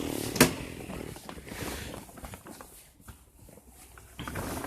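Footsteps and things being shifted about in a cluttered shed, with one sharp knock about half a second in.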